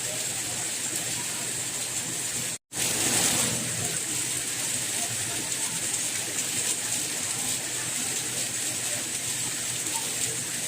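Steady rain, an even hiss with most of its weight high up. About two and a half seconds in it cuts out completely for a split second, then comes back a little louder for a moment: the seam of a looped recording.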